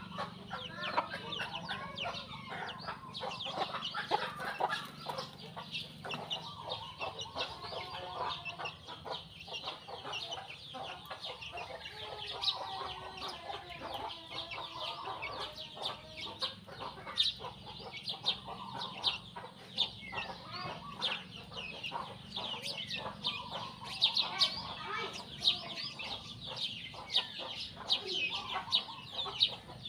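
Chickens clucking throughout over a constant chatter of sparrows chirping, many short high chirps that grow louder in the last few seconds.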